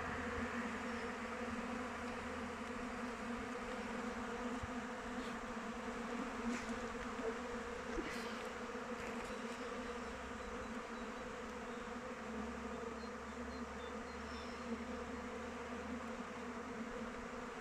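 Many honeybees flying around their hive, a steady many-layered buzzing hum.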